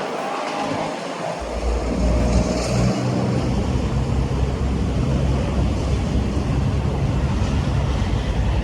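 Wind buffeting the microphone outdoors, a heavy low rumble that starts abruptly about a second and a half in, over a steady rushing hiss.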